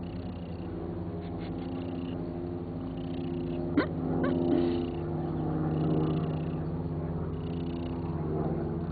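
Domestic cat purring steadily, with a short sharp chirp just under four seconds in and a fainter one about half a second later.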